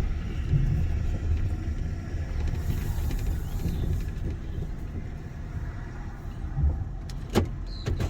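Car driving on a bumpy road, heard from inside the cabin: a steady low rumble that eases off in the second half, with a couple of sharp clicks near the end.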